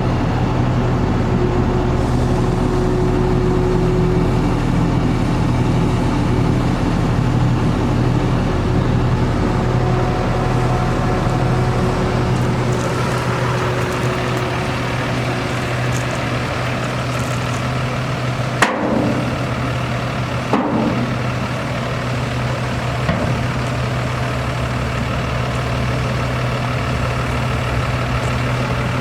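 Cummins 6.7-litre ISB diesel of an International 4300 dump truck idling steadily, with two sharp knocks about two seconds apart a little past halfway.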